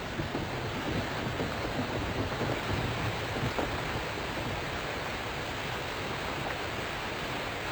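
Hailstorm: a dense, steady hiss of hail and rain falling.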